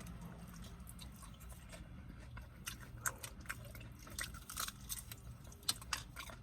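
A person chewing and eating fried chicken: soft, wet mouth smacks and clicks, scattered irregularly, over a low steady hum.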